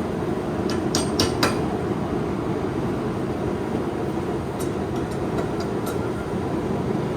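Forge burner running with a steady rushing noise. A few sharp metallic clicks come about a second in, and fainter ones around the middle.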